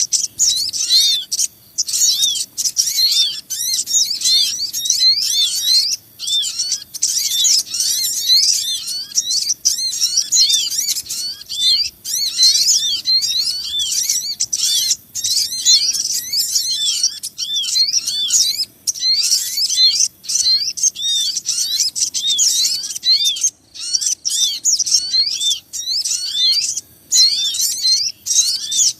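Bird-lure recording of many small birds chirping and calling at once: a dense, fast, high-pitched chatter of short curved chirps, broken by brief pauses.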